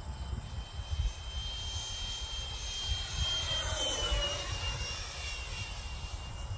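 Whine of the Freewing MiG-15 RC jet's 64mm five-blade electric ducted fan running at speed, its pitch dropping as the plane passes about four seconds in. Gusty wind buffets the microphone throughout.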